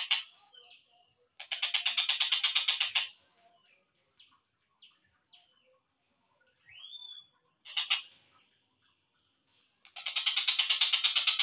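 Slowed-down tengkek buto (kingfisher) song from a bird-training recording: loud, dry rattling trills of rapid even notes, about nine a second. One trill of under two seconds comes about a second and a half in, and another starts near the end. Between them are faint short chirps, one drawn-out call that rises then falls, and a sharp single note.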